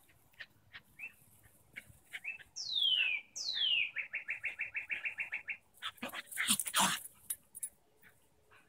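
A songbird singing: two high whistles that fall in pitch, then a quick even trill of short notes. About six seconds in come a few short, harsh sounds from the dogs at play.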